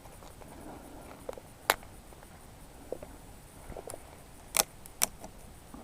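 Dry twigs snapping as they are broken by hand for kindling: a few sharp, separate cracks, the loudest about 1.7 s in and a close pair near the end.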